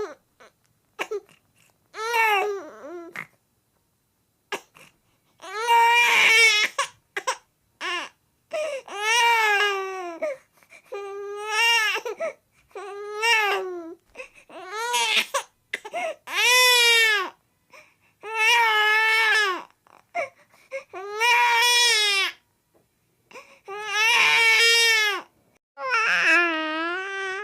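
Baby girl crying from a sound-effects library: a string of short wailing cries, each about a second long with a rise and fall in pitch, broken by brief pauses.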